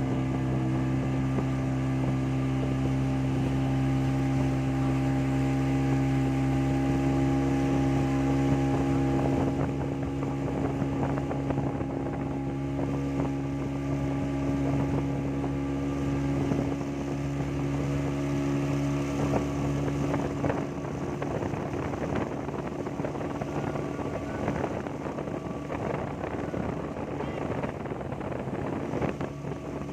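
Motorboat engine running at a steady pitch while towing a banana boat, with wind and water rushing, the rushing growing stronger about a third of the way in.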